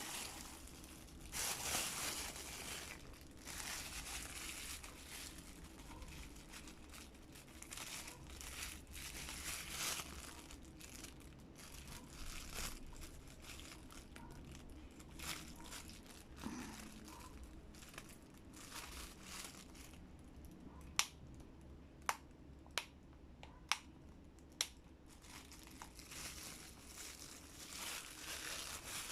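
Packaging crinkling and rustling as items are handled, with five sharp clicks in quick succession about two-thirds of the way through.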